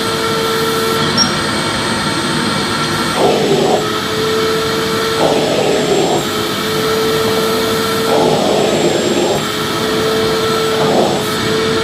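Vacuum cleaner running steadily with a whining hum. Four times the whine briefly gives way to a rougher rushing of air for half a second to a second at a time.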